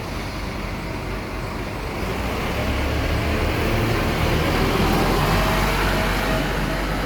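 Scania K230UB city bus's diesel engine running, growing louder from about two seconds in to a peak around five seconds, then easing slightly.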